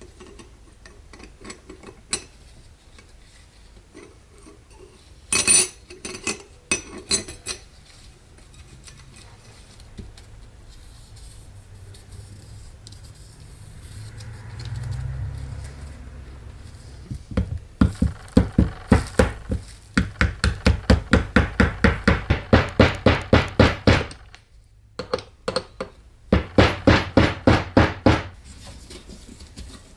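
Hand-tool work on metal transmission parts: scattered clinks, then two runs of rapid, even strikes or clicks at about four a second.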